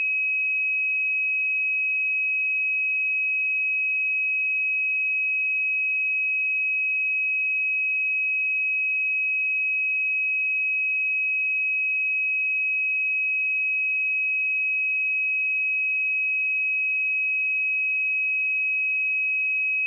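A pure 2547 Hz sine-wave test tone, a single steady high-pitched note held at a constant level.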